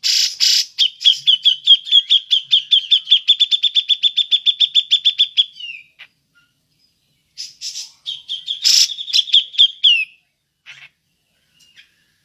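Cucak jenggot (grey-cheeked bulbul) calling in its 'ngepik' style: a harsh opening note, then a long, rapid run of sharp repeated notes that speeds up, lasting about five seconds. After a pause, a second, shorter run follows.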